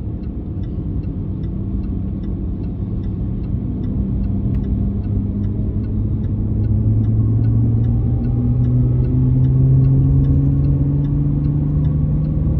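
Supercharged 3.0-litre V6 of a Jaguar XE S heard from inside the cabin, pulling steadily with its engine note rising slowly as the car gathers speed. A faint, regular ticking runs underneath, about two ticks a second.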